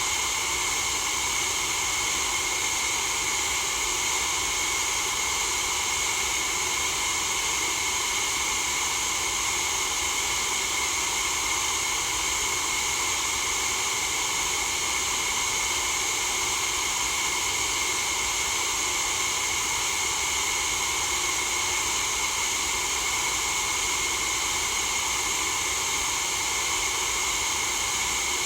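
Steady white noise for sleep: an even, unchanging hiss with no breaks, brightest in the upper range.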